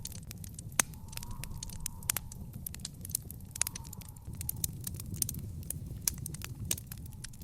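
Fire crackling in a fire pit: irregular sharp pops and snaps, a few louder ones, over a steady low rumble of the flames with faint hissing.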